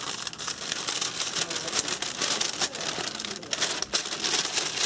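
Craft packaging crinkling and rustling as it is handled, a dense, continuous run of crackles.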